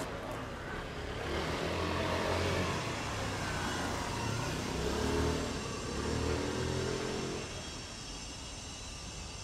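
A motor vehicle's engine revving and passing, loudest about halfway through and fading near the end into a steady background hum of traffic.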